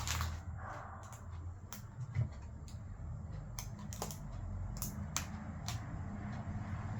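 Irregular light clicks and taps from a phone and small parts being handled during a phone repair, over a steady low hum.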